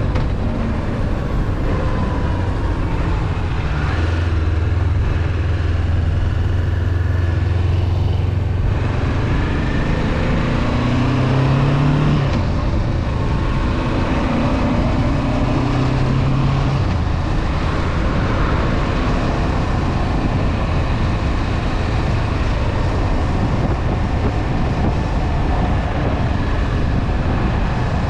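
Honda CB500F parallel-twin engine running under way, heard with steady wind and road noise. Partway through the engine note climbs and then breaks off at a gear change, and in the second half the engine sinks under the wind noise while cruising.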